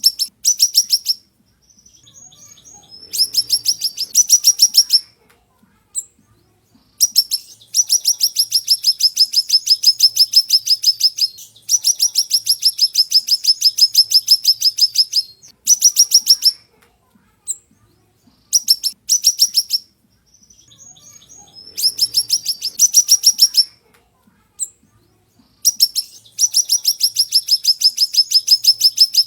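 Siri-siri songbird singing sharp, rapid trills of repeated high notes, about ten a second. The trills come in bursts of one to four seconds, with short pauses and a few single chirps between them.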